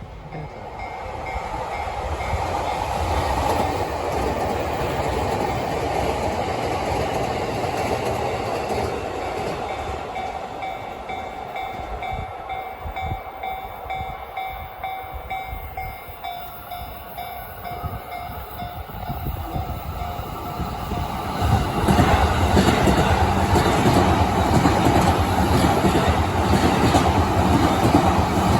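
A train passing a level crossing, its wheels clattering over the rail joints, while the crossing's warning bell rings as a steady tone. The train noise swells sharply about 22 seconds in as it reaches the crossing.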